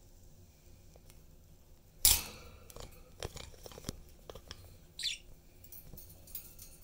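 Budgies in a cage: a sudden loud crackling clatter about two seconds in, then scattered sharp clicks and crunches, with one short high chirp about five seconds in.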